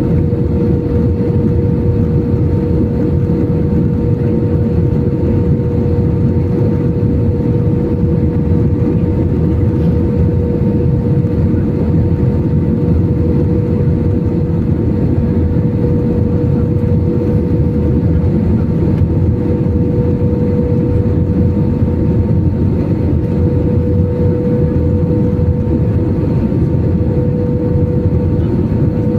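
Passenger airliner cabin noise in flight: a steady engine drone and airflow rush with a constant hum, unchanging throughout.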